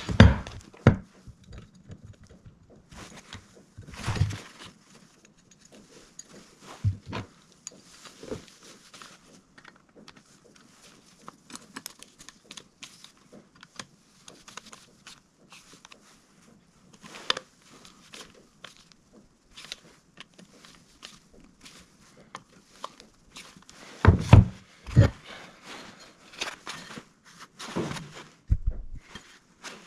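Hands handling small parts and tools: scattered clicks, taps and rattles with a few louder knocks, the loudest a pair about 24 seconds in.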